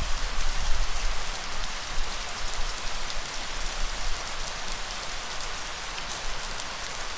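Steady rain falling, an even hiss with a few faint drop ticks and a low rumble underneath.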